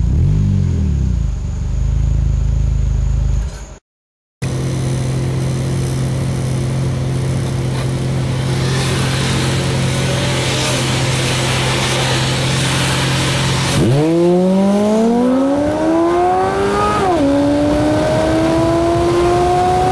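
Chevrolet Cavalier 2.2 L four-cylinder engine breathing through an aftermarket header and Magnaflow muffler, accelerating under load. After a low rumble, a brief cut-out and a stretch of steady running, the revs climb, drop at a gear change and climb again near the end.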